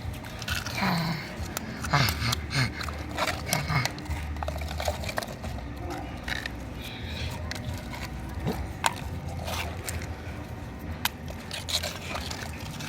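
Scraping and clicking of a toy truck being pushed through mud and water, in scattered irregular knocks.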